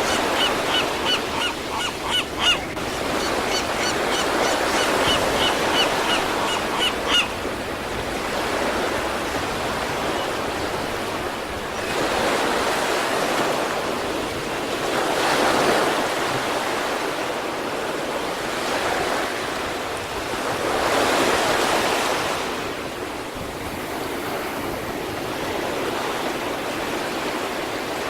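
Sea waves breaking and washing up on the East Sea shore, the surf swelling several times. Over the first seven seconds a bird calls in a fast string of short, sharp notes.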